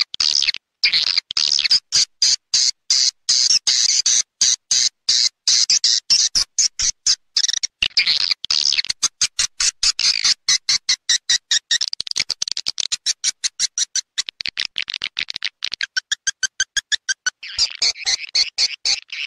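Swiftlet lure call recording (suara panggil walet), the kind swiftlet farmers play to draw swiftlets into a nest house: rapid, high-pitched chattering twitters made of sharp clicking pulses. The pulse trains speed up and slow down, with a few pauses.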